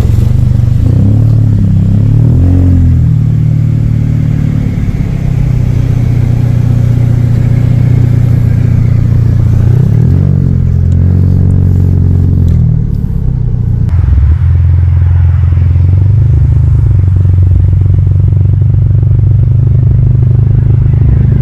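Scion xB car engine and road noise while driving, a steady low drone whose pitch rises as the car accelerates, about a second in and again around ten seconds in.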